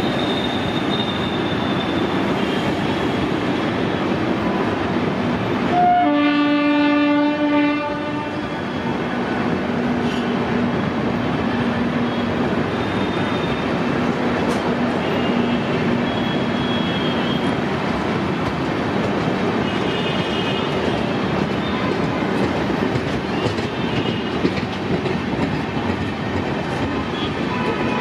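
Passenger coaches rolling past close by, their wheels rumbling and rattling steadily over the rails. About six seconds in, a locomotive air horn sounds once for about two seconds, the loudest thing heard.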